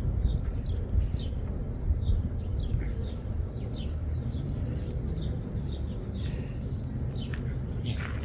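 A small bird chirping over and over in short, falling notes, several a second, over a steady low rumble, with a few sharp clicks near the end.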